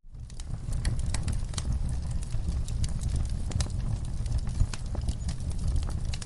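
Wood fire crackling in a fireplace: many sharp, irregular pops and snaps over a steady low rumble of the flames. It fades back in from a moment of silence at the very start.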